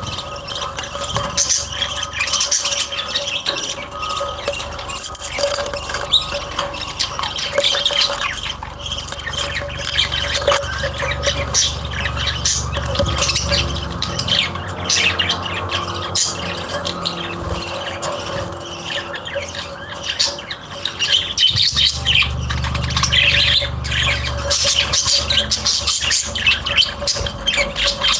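A flock of caged birds chirping and squawking continuously and busily, with a steady hum underneath.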